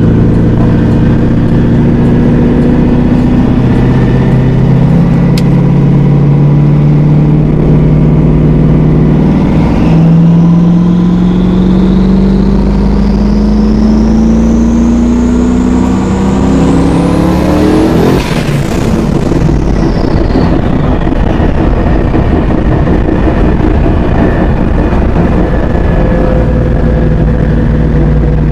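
Twin-turbo LS1 V8 of a Pontiac Trans Am pulling through the gears: the engine note climbs, drops at a gear change about a third of the way in, then climbs again with a high turbo whistle rising over it. About two-thirds in the whistle peaks and falls away as the throttle comes off, and the engine settles into steady cruising.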